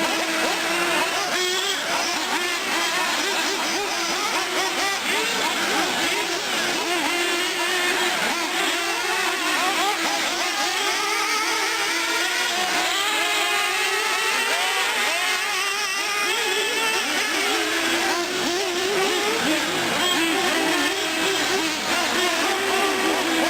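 Several nitro R/C cars running at once, 1/8-scale short course trucks and buggies, their small glow-fuel engines whining and revving up and down over one another without a break.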